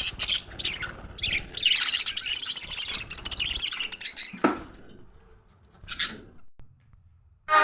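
Budgerigars chattering and warbling in quick, dense chirps. About four and a half seconds in there is one sharper, louder call, then a single short chirp, and the sound dies away near the end.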